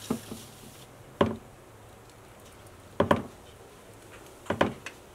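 Short hard knocks and clacks in small groups, one to two seconds apart, from a snake cage and feeding gear being handled. The loudest are a double clack about three seconds in and a cluster near the end.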